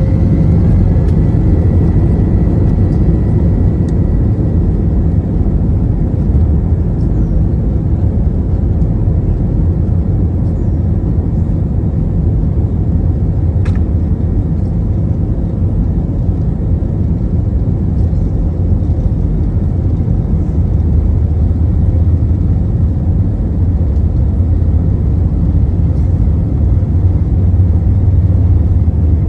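Steady engine and airflow noise of an Airbus A321 heard inside the passenger cabin during takeoff and climb. A whine fades out near the start.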